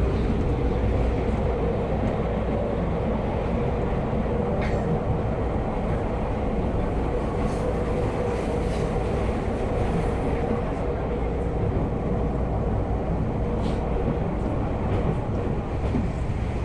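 Electric commuter train running at speed, heard from inside the car: a steady rumble of wheels on rail with a level hum that fades out near the end. A few sharp clicks come through, about five seconds in and again near the end.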